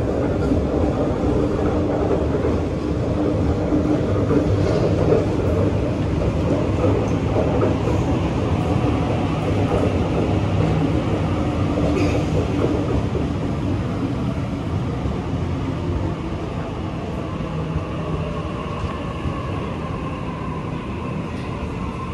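Double-deck electric passenger train running past along the platform: a steady rumble of wheels and running gear that slowly grows quieter through the second half. A faint whine comes in near the end.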